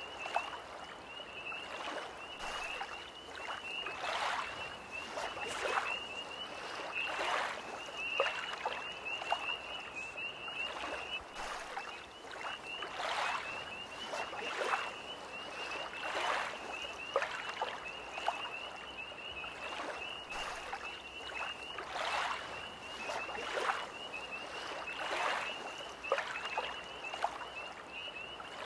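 Small lake waves lapping in short splashes every second or so, under a tree frog's continuous high-pitched trill.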